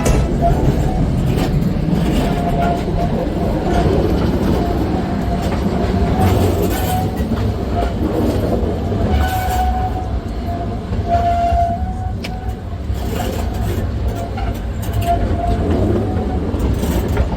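Steam-hauled heritage train running on the line: a steady rumble of wheels and carriages on the track, with brief faint high tones now and then.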